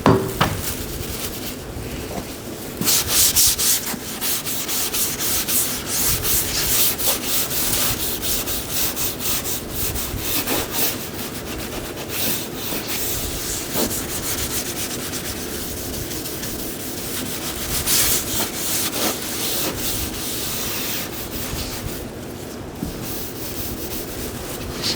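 Sandpaper being rubbed back and forth by hand over a car body panel in quick, uneven strokes, with a steady hum of shop equipment beneath.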